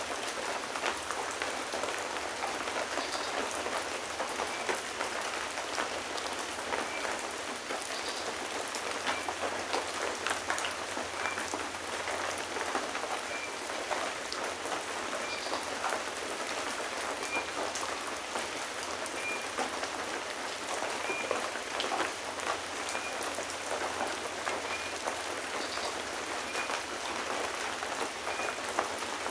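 Steady rain falling, a dense even hiss with individual drops spattering throughout. A faint short high note repeats about every second and a half.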